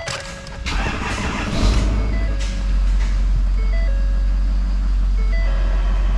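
A diesel pickup engine running steadily with a deep, low rumble that comes in about one and a half seconds in, under background music with a simple stepped melody.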